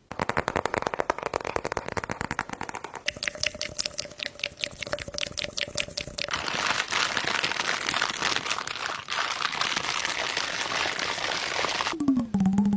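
Slime being squeezed and worked close to the microphone, with many quick wet pops and crackles that grow denser about halfway through. A gliding musical note comes in near the end.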